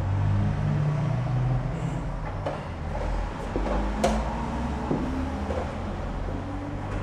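Light knocks of chess pieces being set on a board and one sharp click about four seconds in, typical of a chess clock being pressed, over a steady low room hum.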